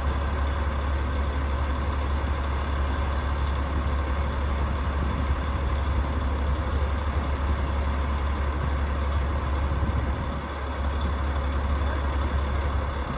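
Rooftop HVAC unit running: a steady low hum with an even fan rush over it, dipping slightly about ten seconds in.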